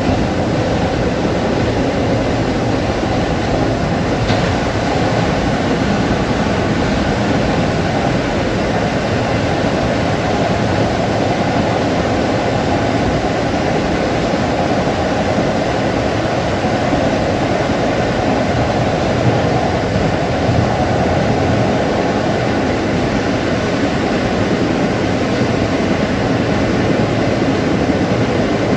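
Long Island Rail Road M3 electric multiple-unit train running, a steady loud noise of wheels on rail and car motion heard from on board.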